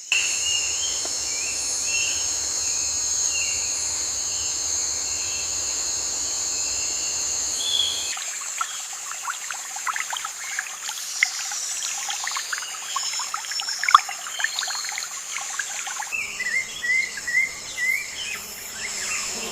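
Steady high insect chorus, with short repeated bird chirps over it. The sound changes abruptly twice, about a third and about four-fifths of the way through: the middle stretch holds quick scattered chirps and clicks instead of the regular chirping.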